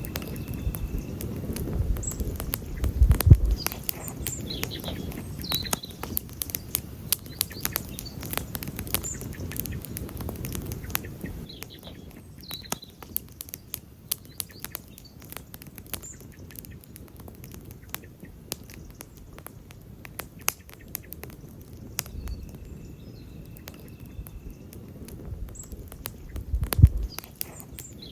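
Wood campfire burning and crackling, with frequent sharp pops and snaps over a low rumble that dies down about halfway through and swells again near the end. Two louder low thumps stand out, about three seconds in and near the end.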